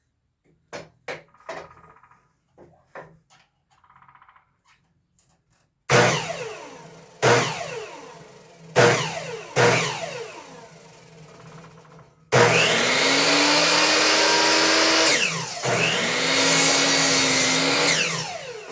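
Miter saw cutting wood for 45-degree frame mitres. Light knocks of the workpiece being handled come first. Then four brief bursts of the saw motor, each dying away, and two longer runs of about three seconds each, each ending as the blade winds down with a falling whine.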